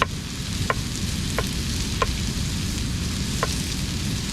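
A knife chopping zucchini on a board: five sharp knocks, each with a short ring, spaced under a second apart with a longer pause before the last. Under them runs a steady sizzle of tuna frying in the pan.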